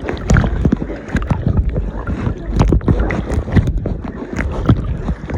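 Water splashing and sloshing around a person moving through an inflatable water obstacle course, with irregular splashes and knocks. Wind rumbles on the microphone underneath.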